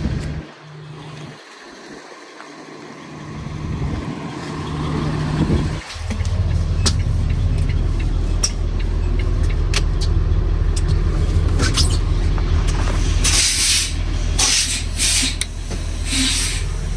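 School bus diesel engine idling steadily, coming in strongly about six seconds in after a quieter stretch. Several short bursts of air hiss come near the end.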